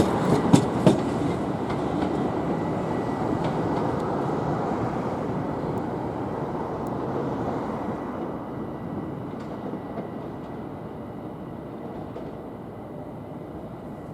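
Southern Class 377 electric multiple unit running past on the approach tracks and moving away. A few wheel clicks over rail joints come in the first second, then a steady rumble that fades gradually.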